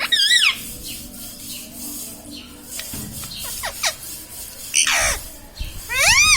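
Pet ringneck parrot calling: a loud warbling screech at the start, a few short falling whistled notes in the middle, then a falling call and a loud rising screech at the end.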